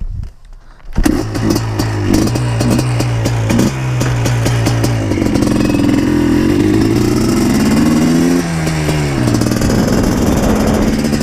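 Yamaha Blaster 200's single-cylinder two-stroke engine starts about a second in and runs on, its engine speed rising and falling, then settles to a steady note near the end.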